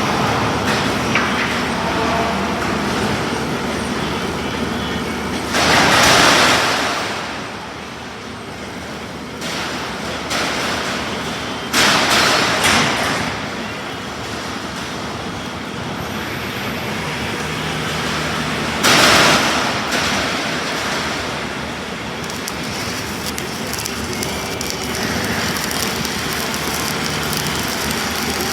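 Steady job-site machine noise, broken by three loud harsh bursts about a second long each: near the start, near the middle and about two-thirds of the way through.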